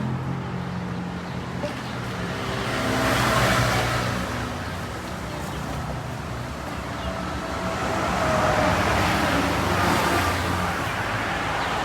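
Road traffic noise: vehicles passing, swelling and fading about three seconds in and again around nine seconds in, over a low steady hum.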